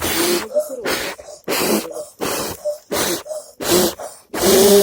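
About eight short, loud breathy bursts from a person close to the microphone, some with a bit of voice in them, like hard breaths or gasps.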